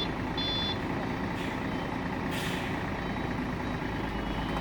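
Heavy truck's diesel engine running steadily, with one reversing beep near the start, the end of a run of beeps, and a short hiss of air, as from air brakes, about two and a half seconds in.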